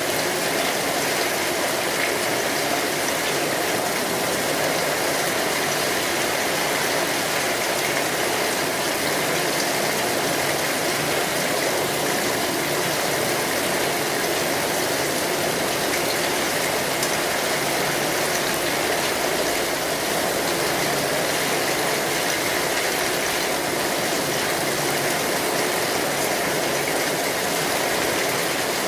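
Steady heavy rain falling on an umbrella canopy, an even, unbroken hiss of drops.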